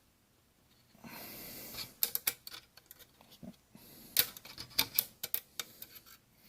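Small metal clicks and taps of a steel pick and parts being worked inside an AK-pattern rifle's receiver, coming irregularly from about two seconds in.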